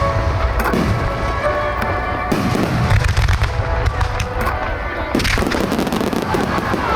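Aerial fireworks shells bursting in quick succession, many sharp bangs and crackles over a continuous low rumble, with music playing along.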